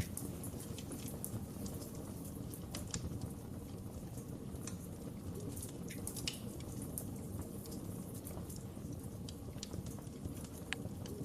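Fireplace fire crackling: a steady low rumble of flames with irregular sharp pops and snaps scattered throughout.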